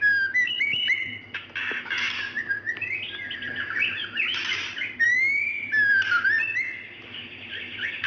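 A female white-rumped shama calling to a male with a mix of clear whistled notes, rising slurred whistles and short harsh, buzzy notes. This is the call of a female in breeding condition.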